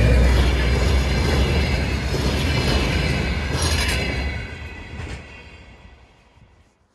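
A train passing close by: the Dr16 diesel-electric locomotive's engine hum and the wheels of its wagons rumbling over the rails. A brief squeal comes near four seconds in. The sound then fades away over the last couple of seconds as the train recedes.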